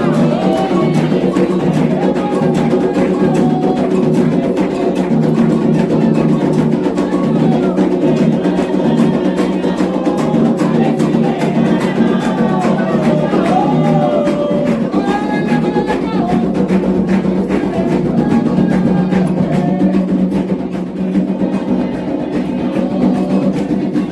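Candomblé chanting: voices singing a wavering melodic line over fast hand drumming and a clacking percussion beat.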